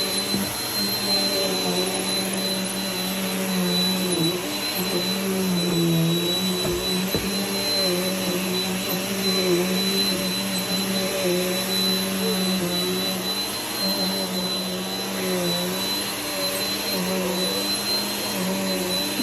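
Vacuum cleaner running steadily, with a high thin whine over the motor hum. The motor's pitch dips briefly and recovers every second or two.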